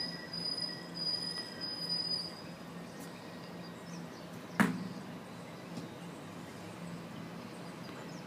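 Outdoor ambience with a steady low hum, a high-pitched trill in short stretches during the first two seconds, and a single sharp knock about four and a half seconds in.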